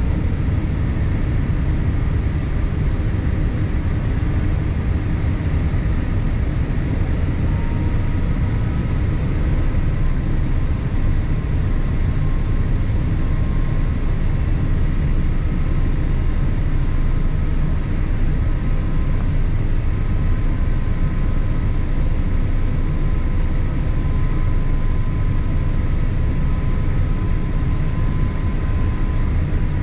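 Steady cabin noise inside a Boeing 787-8 airliner in flight: a constant low rumble of engines and airflow, with faint steady whines above it.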